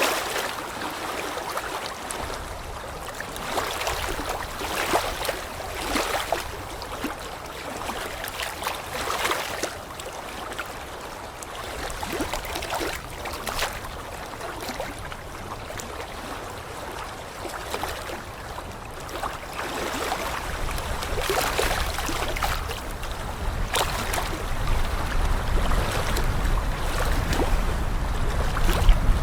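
Water rushing and splashing in uneven surges every couple of seconds, with a low wind rumble on the microphone growing near the end.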